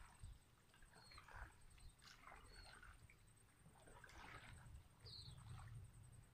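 Near silence: quiet open-air ambience with a few faint short bird chirps and a low rumble.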